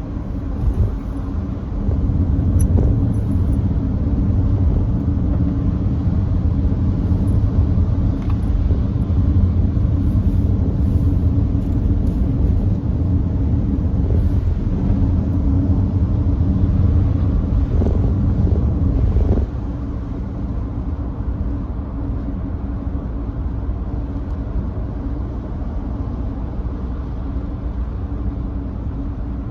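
Steady in-cabin road and tyre rumble of a first-generation Nissan Note e-POWER cruising on a wet expressway. It gets louder about two seconds in and drops back to a lower level about two-thirds of the way through.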